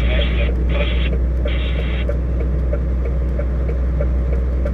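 Steady low rumble of a car driving on the highway. A second, higher sound is mixed in over the first two seconds and then stops.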